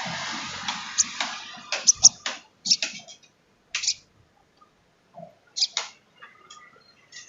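Sogon trotol (spotted sunbird) calling: a dense rasping chatter that fades over the first second or so, then a series of short, sharp, high chips at irregular intervals, some in quick pairs.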